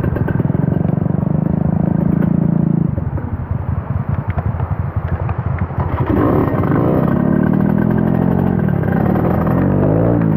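Trail motorcycle engine running at steady revs, dropping to a low, uneven chug for a few seconds, then revving up and down repeatedly from about six seconds in.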